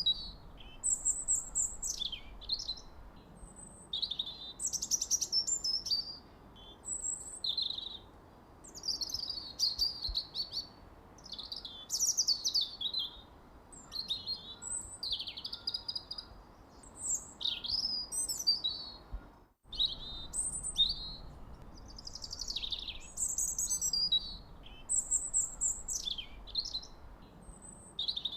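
Songbirds singing: quick, high chirping phrases, many of them sweeping downward, repeating every second or two. A brief dropout in the sound comes about two-thirds of the way through.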